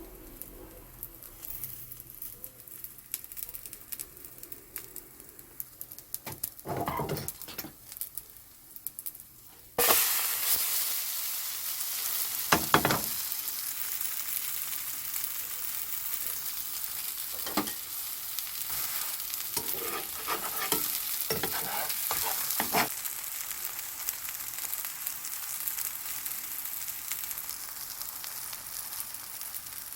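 Korean vegetable pancake frying in oil in a pan, sizzling. About ten seconds in, the sizzle jumps suddenly louder and stays steady, with a few short scrapes of a utensil against the pan.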